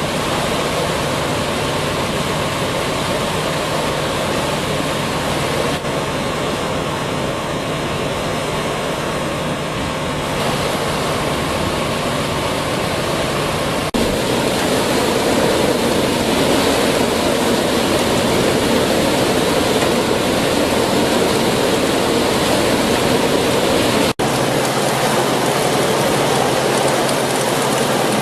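Screening machine (material sorter) running, with a steady rushing of loose material tumbling through the screen over a low motor hum. The noise breaks off for an instant twice, about 14 and 24 seconds in.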